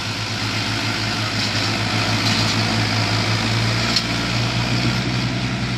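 Diesel tractor engine running hard with a steady low throb, labouring under the load of a fully loaded trolley. A brief sharp tap about four seconds in.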